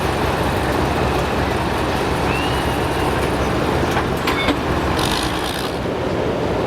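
Semi-truck diesel engine running steadily with a low rumble, and a short hiss about five seconds in.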